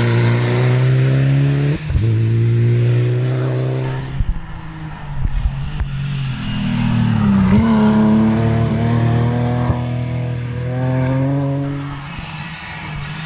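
Rally car engine accelerating hard up through the gears, the pitch climbing and dropping sharply at each shift. It eases off about four seconds in with a few sharp cracks, then pulls hard again and fades near the end.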